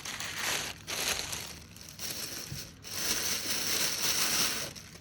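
Packaging crinkling and crumpling as it is handled, in uneven bursts, loudest in the second half.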